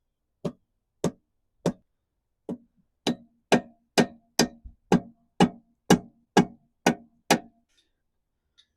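Repeated hammer blows on a Yamaha F150 outboard's lower unit, knocking the seized gearcase loose from the midsection: about fourteen sharp knocks with a short ring after each, coming faster, about two a second, from about three seconds in, and stopping near the end.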